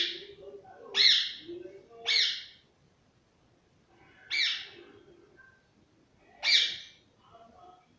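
Pet parrot giving five short, loud, sharp calls, three in quick succession about a second apart, then two more after a pause.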